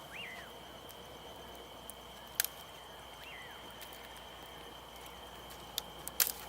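Crickets or other night insects trilling steadily, with a night bird's short whistle, rising then falling, repeated three times about three seconds apart. A few sharp crackles from the campfire.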